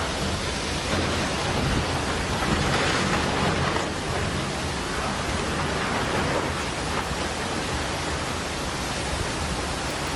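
Heavy rain and strong wind in a storm: a dense, steady rush of noise.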